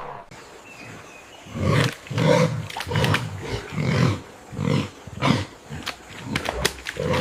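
A large wild animal giving a series of loud, deep roaring grunts, one after another about every two-thirds of a second, starting about a second and a half in.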